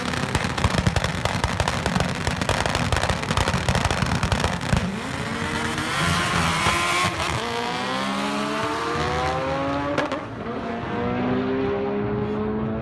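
Race car engines at full throttle off the line, with dense crackling and popping for the first few seconds. Then the engine note climbs in pitch again and again as the cars accelerate through the gears.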